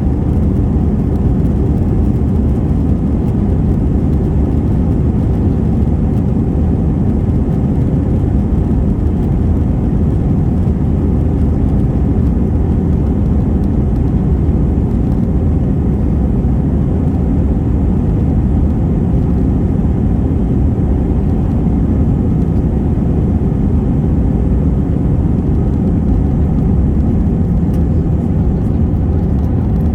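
Steady, loud jet engine and airflow noise heard inside the cabin of an Airbus A321 during takeoff and climb-out.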